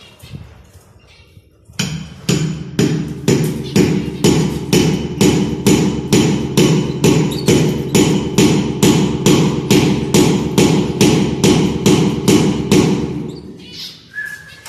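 A steady, even run of sharp knocks, about two and a half a second, each with a short ringing tone. It starts about two seconds in and stops a little before the end.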